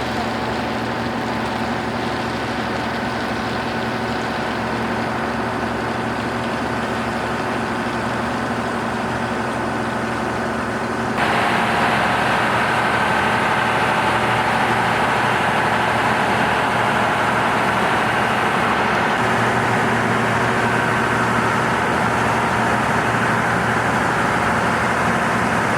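Heavy machinery's engine running steadily, with a sudden step up in loudness about eleven seconds in.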